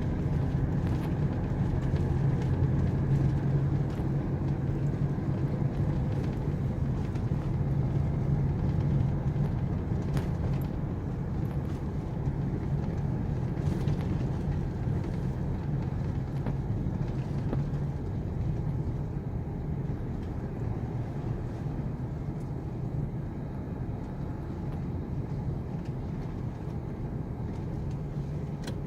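Off-road vehicle's engine running steadily while driving a dirt track, with occasional short knocks and rattles. The engine note eases off somewhat about two-thirds of the way through.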